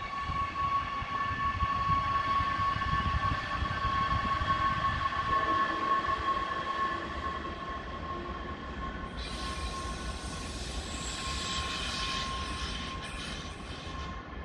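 Train moving through the station: a low rumble under a steady high whine, with a hiss joining about nine seconds in and stopping just before the end.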